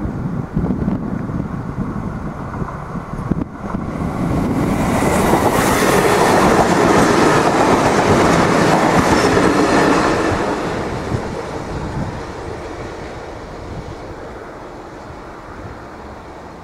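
Irish Rail 22000 class diesel multiple unit passing through a level crossing: its noise builds about four seconds in, stays loud for about six seconds as the carriages go by, then fades away.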